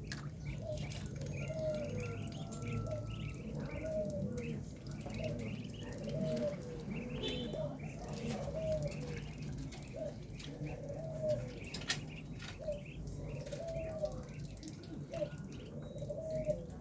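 Penned birds calling: a low, arched cooing call repeated about once a second, with higher chirps over it.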